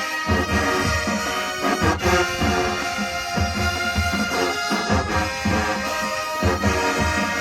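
High school marching band playing loudly: massed brass (trumpets and trombones) over a steady drum beat.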